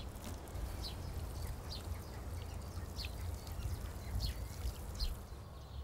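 Small birds chirping, short calls about once a second, over a low steady outdoor rumble.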